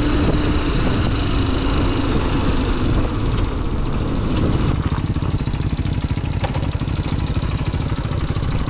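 Motorcycle engine running, with a steadier, higher tone for the first few seconds that settles into an even, rapid pulsing beat about halfway through.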